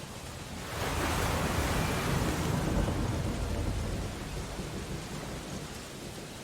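Steady rain on window glass over a stormy sea, with a loud surge of storm noise starting suddenly about a second in. The surge carries a deep rumble and dies away over the next few seconds.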